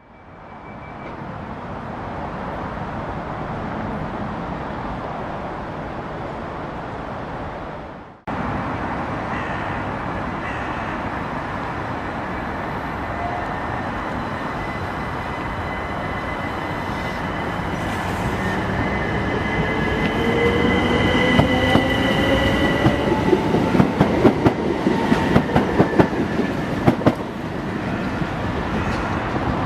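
Train moving along the tracks, a steady rumble with high wheel squeal and gliding motor tones. Rapid clicks of the wheels over the rail joints grow louder in the second half.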